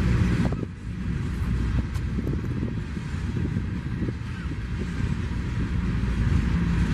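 Coal hopper cars of a freight train rolling past: a steady rumble of steel wheels on rail, with scattered clicks.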